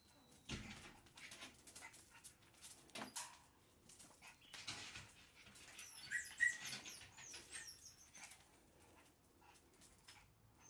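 Shiba Inu puppy moving about, with scattered light taps and clicks, and a short run of high squeaks about six seconds in.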